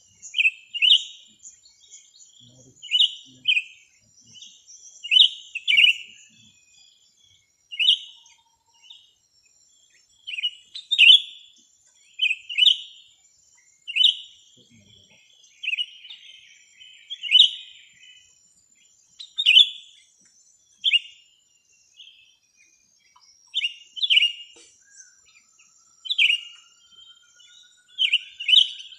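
Small songbird chirping in short, sharp repeated phrases, about one every second or two, with fainter high thin notes between them.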